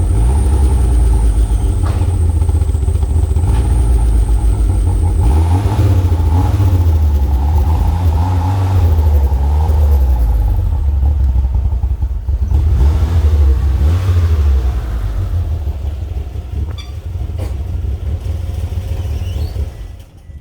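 1998 Mitsubishi Eclipse GS-T's turbocharged 2.0-litre four-cylinder engine running after a cold start. A high whine stops about five seconds in, the engine note then rises and falls several times, and it grows quieter before cutting off near the end.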